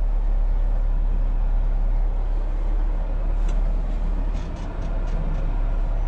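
Heavy-haul semi truck's diesel engine and road noise heard from inside the cab, a steady low rumble, with a few faint clicks a little past the middle.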